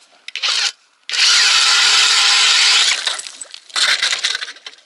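Ice auger boring the first hole through clear lake ice: a brief start, then about two seconds of steady loud grinding, and a short final burst about a second later as it breaks through.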